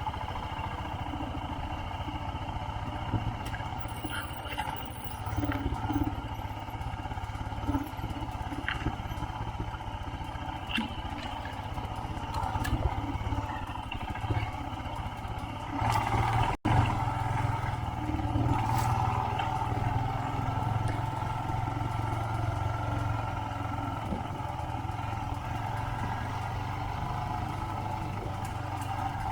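Royal Enfield Himalayan single-cylinder engine running steadily while riding on a dirt road, with scattered knocks. The sound breaks off for an instant about halfway through.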